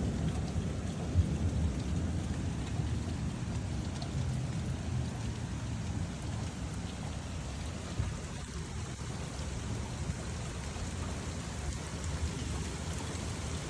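Steady rain in a thunderstorm, with a low rumble of thunder underneath that slowly fades.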